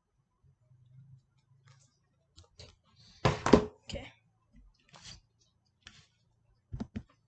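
Scattered clicks and knocks of equipment being handled, with a louder clatter about three seconds in and two quick clicks near the end.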